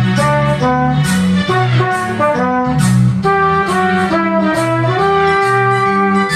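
Cornet playing a lively melody of short and held notes over a backing track with bass and drums.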